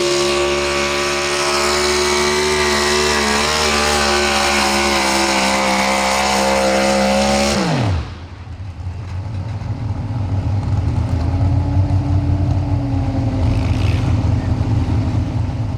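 Pro Stock 4x4 pulling truck's engine at full throttle, holding a steady high pitch, then dropping sharply about seven and a half seconds in as the throttle is released. It settles into a low, rough rumble that swells and then fades near the end.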